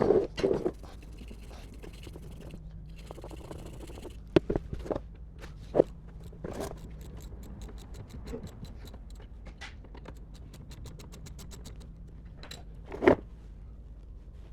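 Hand tools working on metal car parts: scattered clinks and knocks, a run of quick even clicks from a ratchet spanner in the middle, and a louder knock near the end.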